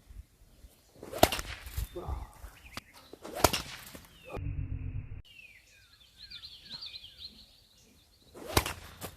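80-inch paracord sling swung and released, three sharp whip-like cracks, about a second in, a little past three seconds and near the end. Birds chirp between the second and third crack.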